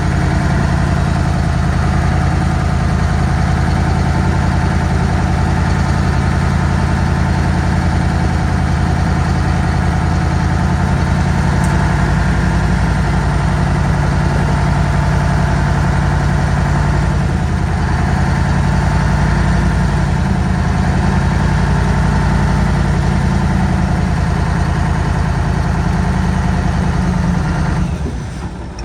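Heavy diesel engine running steadily at a constant low speed, its sound falling away near the end.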